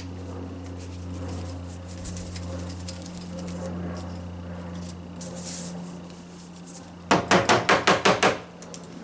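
A vacuum cleaner part is rapped hard against a surface in a quick run of about eight sharp knocks, roughly seven a second, lasting just over a second about seven seconds in. This fits knocking trapped trash out of a blocked hose or intake. Before the knocks there is only faint handling rustle over a steady low hum.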